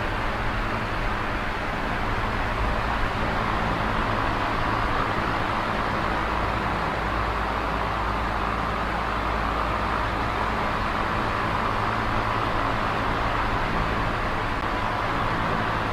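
Small electric oscillating fan running steadily: an even rush of air with a faint low hum beneath it.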